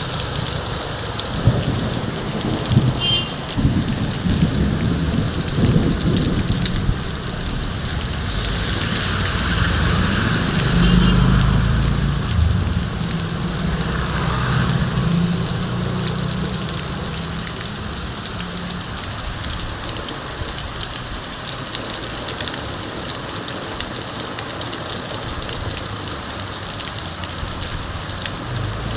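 Heavy rain pouring steadily. A low rumble swells and fades around the middle.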